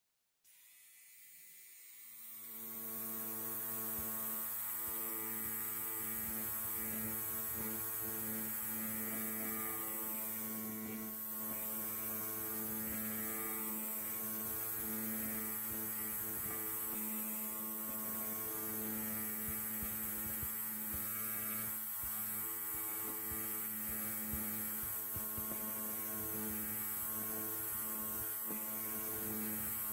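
Electric hair clipper buzzing steadily, a low hum with evenly spaced overtones. It fades in from silence over the first couple of seconds, then holds level.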